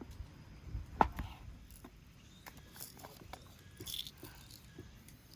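Irregular light clicks and knocks, with one sharp knock about a second in.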